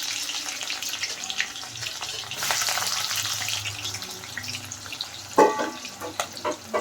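Onions sizzling and crackling in hot oil in a pan. The sizzle swells about two and a half seconds in, then eases.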